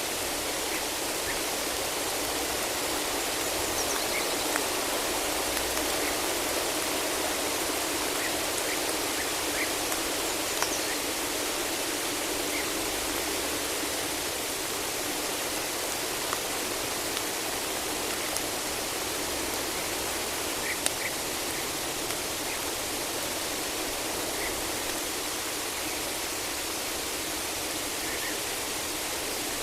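Steady rain falling in a forest: an even hiss with a few brief, sharp ticks scattered through it.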